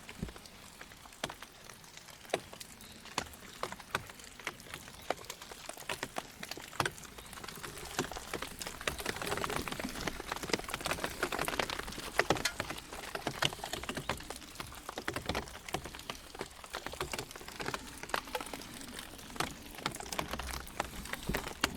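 Rain falling, with many irregular sharp drop ticks over a steady hiss that grows a little heavier in the middle.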